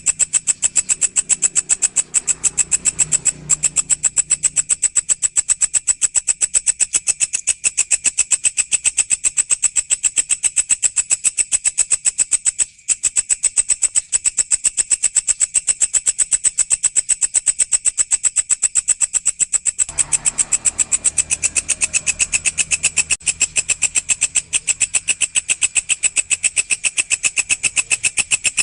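Walang, a singing grasshopper, calling in a fast, even train of high, buzzy pulses that runs on without a break. A faint low hum sits underneath near the start and again from about two-thirds of the way through.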